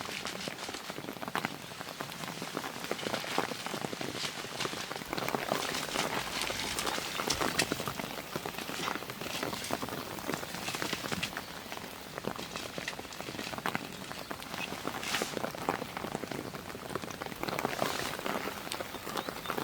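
Steady rain falling, a dense scatter of separate drops striking a surface.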